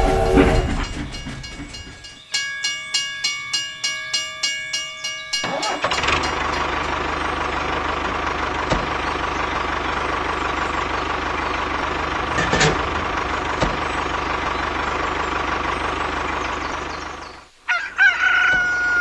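A string of sound effects. First about a dozen quick bell-like rings, about three a second, like a railway crossing bell. Then an engine runs steadily for about twelve seconds and cuts off suddenly, and a rooster crows near the end.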